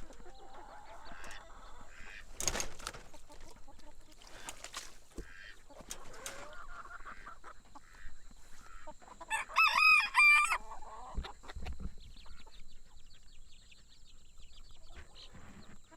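Backyard chickens clucking, with a rooster crowing once about nine seconds in, the crow being the loudest sound.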